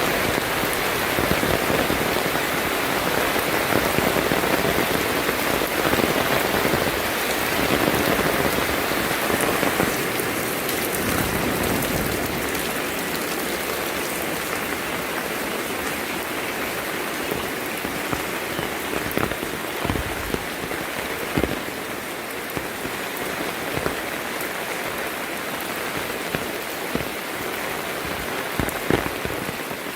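Heavy rain falling steadily, a dense even hiss, with now and then a sharper drop or tap standing out, more often in the second half.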